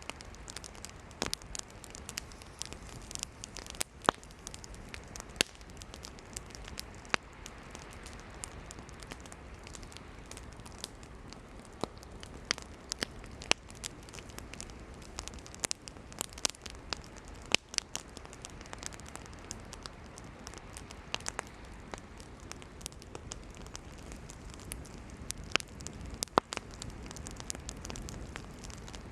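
Wood campfire burning, crackling and popping irregularly over a low steady hiss, with a few sharper, louder pops.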